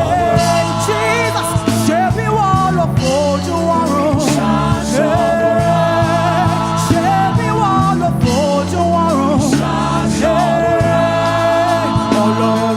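Live gospel praise-and-worship music: a singer's voice with long sliding runs over a band's sustained bass and keyboard chords, with occasional percussion hits.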